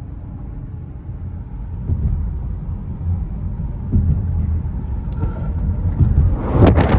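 Car engine and road rumble heard from inside the cabin while driving, swelling a couple of times. Near the end a louder rush of wind or handling noise on the microphone.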